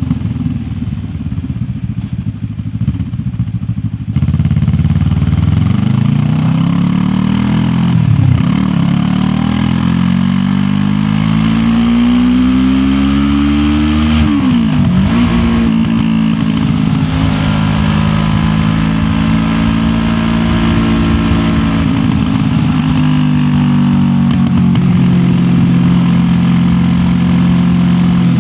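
QJ Motor SRT 700X parallel-twin motorcycle engine under way. It runs quietly off the throttle at first. About four seconds in it opens up and revs rising through two gear changes, then settles into a steady cruise.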